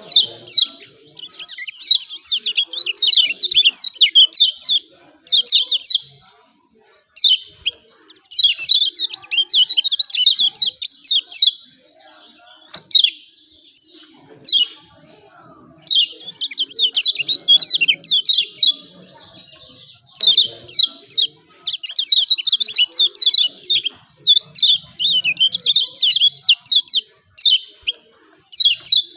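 Kecial kuning (Lombok white-eye) giving its excited 'ciak ciak' chatter: bouts of rapid, high chirps a few seconds long, broken by short pauses.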